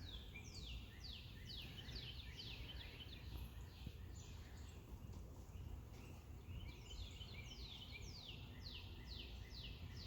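A songbird singing a run of quick, high notes that each slide downward, about three a second, in two bouts: one in the first few seconds and another from about six and a half seconds in. Beneath it is a low steady background rumble.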